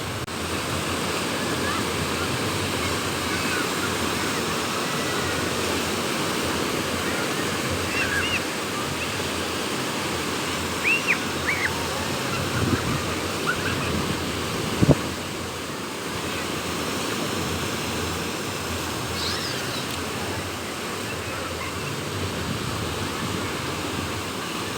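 Sea waves breaking and rushing on a beach with wind, a steady noise throughout. A few brief high chirps come in the middle, and a single sharp click a little past the middle.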